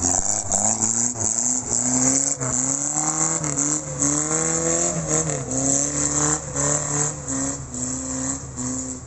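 Off-road vehicle engine working under load, its revs rising and dipping again and again, with many short knocks and clicks over it.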